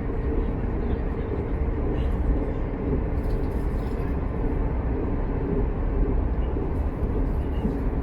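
Steady low rumble and running noise of a passenger train travelling at speed, heard from on board.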